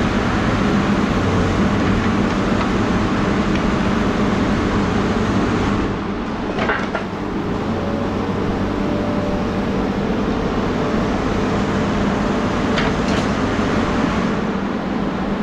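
A motor vehicle running steadily: a constant rush of noise over a low engine hum, with a brief clatter about six and a half seconds in and another near thirteen seconds.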